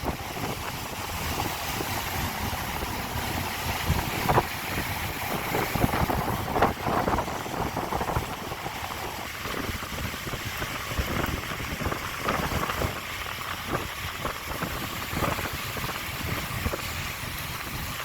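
Mountain valley stream rushing over rocks, a steady even wash of water noise, with wind buffeting the microphone in irregular low thumps.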